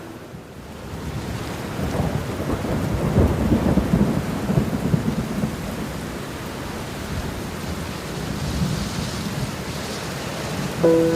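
Steady rain with a rolling thunder rumble that swells about two seconds in and eases off over several seconds. Soft musical notes come in over the rain near the end.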